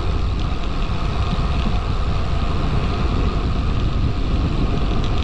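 Wind buffeting the microphone of a camera on a moving road bike, a steady low rumble.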